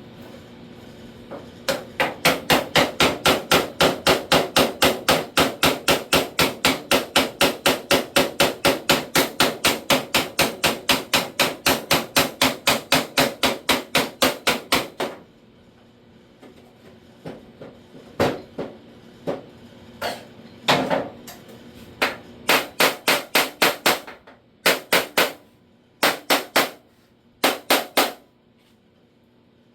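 Hammer tapping on the steel edge of a car's lower door skin repair panel, a fast even run of about four blows a second for some thirteen seconds, then a pause and shorter groups of taps. The panel had crept out of place and is being tapped back up.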